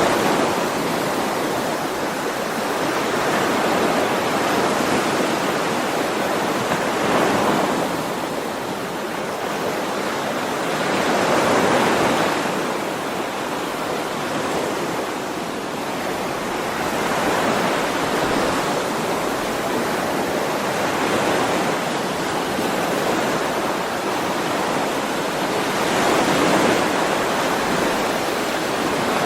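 Ocean waves breaking and washing on a shore in a steady rush of surf, each wave swelling and fading every four to five seconds.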